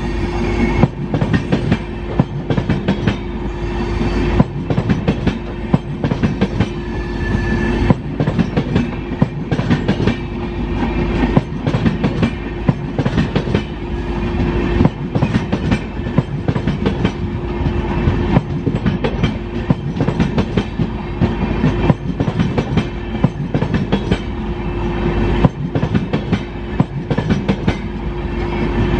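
A train running along the track, its wheels clattering over rail joints in a quick, irregular clickety-clack, with a steady hum throughout.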